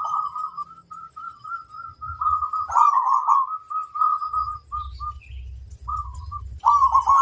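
Zebra dove (perkutut) cooing: a series of bubbling, rolled coo phrases broken by short pauses, with a loud full phrase near the end.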